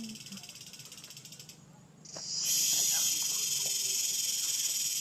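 Steady, high-pitched chorus of insects, dense and finely pulsing. It fades away about one and a half seconds in, then returns louder about half a second later and stays steady.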